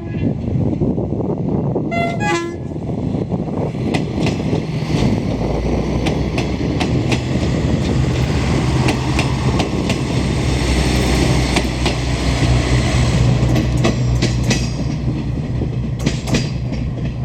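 Media Distancia passenger train passing. Two short horn toots come about two seconds in, then the train's steady engine drone and the repeated clack of wheels over rail joints as the cars go by.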